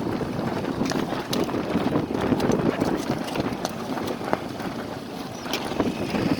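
Wind and choppy water against a small wooden sailboat: a rough, rushing wash with irregular knocks and slaps scattered through it.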